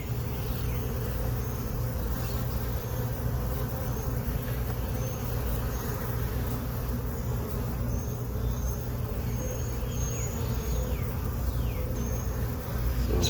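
A honey bee colony buzzing around its opened hive: a steady hum of many bees, with now and then a brief falling whine.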